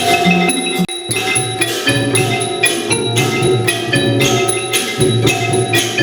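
Thai classical ensemble music led by struck mallet instruments like the ranat xylophone, a fast run of ringing notes with a brief break just under a second in.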